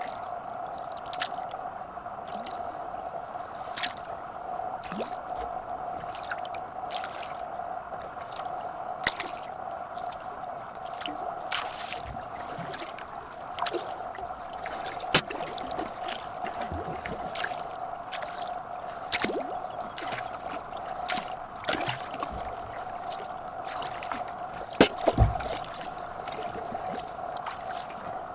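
Sea kayak being paddled: paddle blades dipping and water splashing and dripping in short, irregular strokes over a steady hum, with two low thumps about 25 seconds in.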